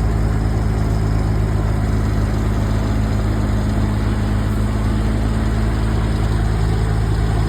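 A large engine idling steadily with a low, even hum that does not change in pitch or level.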